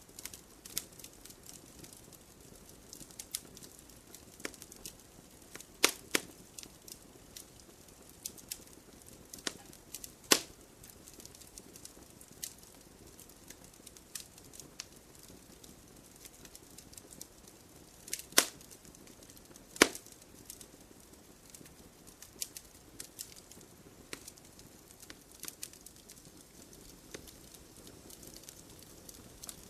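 Wood campfire burning with a soft steady hiss and irregular crackling, broken by a few loud sharp pops, the biggest about 6, 10, 18 and 20 seconds in.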